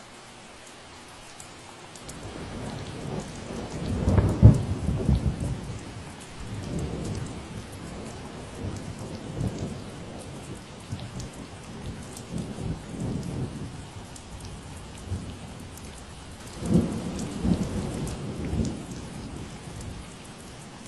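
Steady rain falling, with a long roll of thunder rumbling in about two seconds in. The thunder is loudest a few seconds later and swells again near the end before fading.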